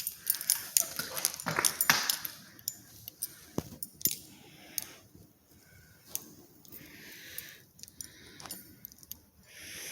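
Keys jangling with scattered light metallic clicks, busiest in the first couple of seconds and thinning out after.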